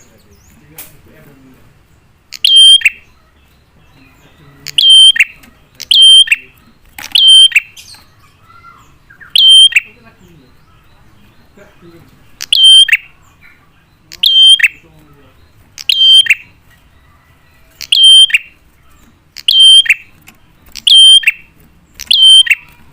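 Prinia (prenjak) calling: a dozen loud, sharp call notes repeated every one to two seconds, the kind of prenjak call used as a lure to make other prinias answer.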